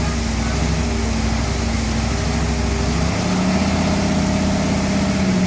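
Engine of a historic fire engine idling steadily; its note changes about three seconds in.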